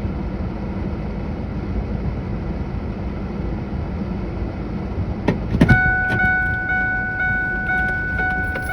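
Low steady rumble, then a couple of sharp clicks a little past halfway, like the 1995 Ford Ranger's door being opened, followed by the truck's steady electronic warning chime sounding on through the end.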